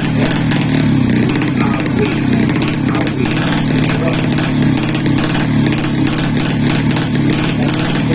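Underbone drag-bike motorcycle engine running steadily with a rapid buzzing beat, with voices in the background.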